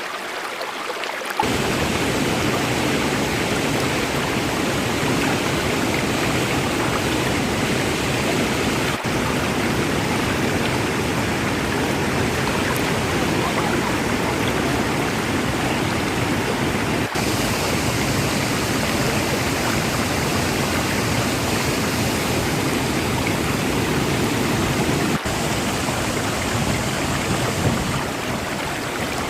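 Huka Falls on the Waikato River: a heavy volume of white water rushing steadily through the falls, with three momentary dips in the sound.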